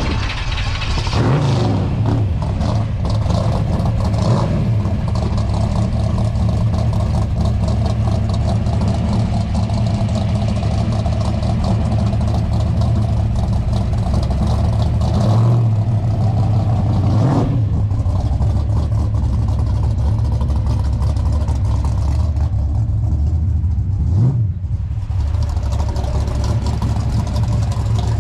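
A car engine idling steadily at close range, with a few short throttle blips: one about a second and a half in, two more around the middle, and one near the end.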